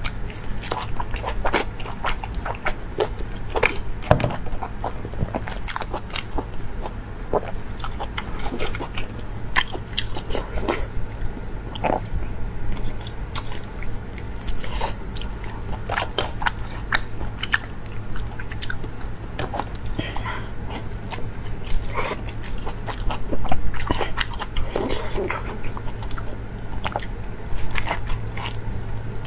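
Close-miked eating of glazed braised fatty meat: biting and chewing with many small irregular clicks, over a steady low hum.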